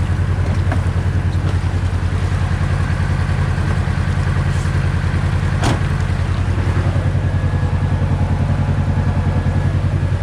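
Kawasaki Teryx KRX side-by-side's parallel-twin engine running steadily at an even, low speed with no revving. A single sharp click a little under six seconds in.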